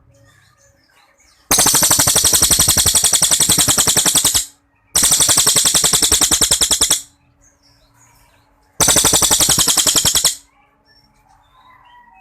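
Cililin songbird delivering three long, loud, very rapid rattling trills ("tembakan panjang", long shots) with short pauses between them. Other birds chirp faintly in the gaps.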